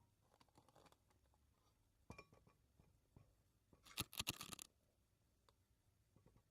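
Quiet handling noises: scattered faint clicks, then a short scraping clatter of several sharp strokes about four seconds in. No motor is running.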